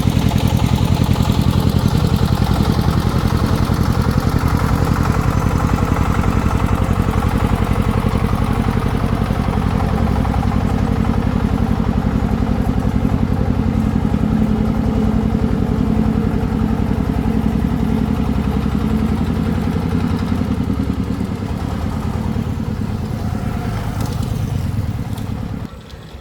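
Single-cylinder diesel engine of a Vietnamese công nông farm vehicle running steadily with a rapid even chugging. The sound drops away sharply near the end.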